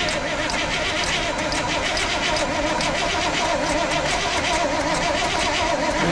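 1955 GMC 100's V8 cranking steadily on its starter motor without catching, its whine wavering evenly with each compression stroke as fuel is drawn through to the carburettor.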